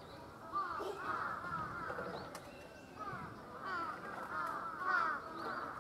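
A dense chatter of many short bird calls overlapping one another, with faint voices underneath.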